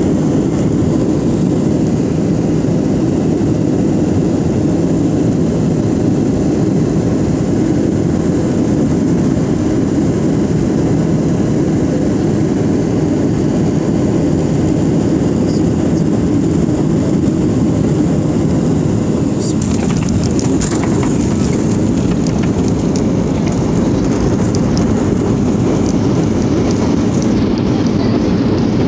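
Steady cabin noise of an airliner: engine and airflow rumble at an even level. From about twenty seconds in, light clicks and rattles come over it.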